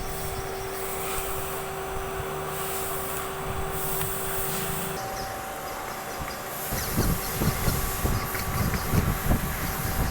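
Doosan CNC machine tool running, with a steady whine that steps up in pitch about halfway through. From about two-thirds in, a rougher, uneven rumble joins it.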